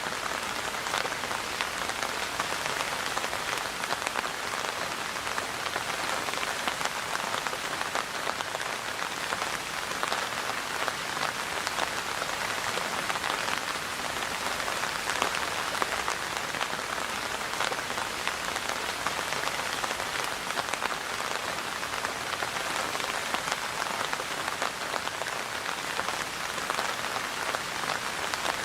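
Steady rain, with a dense patter of many small drops striking a surface.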